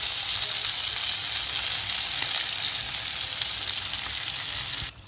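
Chicken pieces sizzling steadily in hot oil and ghee in a kadai as they are sautéed in onion and spice masala; the sizzle cuts off suddenly near the end.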